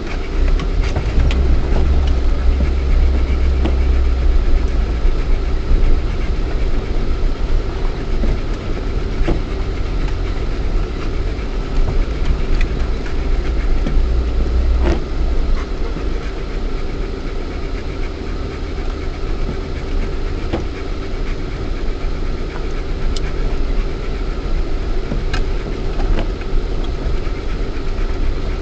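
Lada Niva's 1.7-litre four-cylinder petrol engine and drivetrain running steadily while driving off-road, heard inside the cabin, with a heavy low rumble and occasional sharp knocks.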